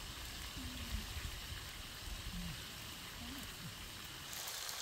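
Whole chicken frying in a wok over a wood fire: a steady hiss with a low rumble beneath. About four seconds in the sizzle becomes louder and brighter.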